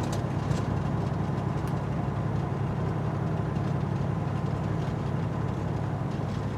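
Semi truck's diesel engine running steadily with a low hum, heard from inside the cab.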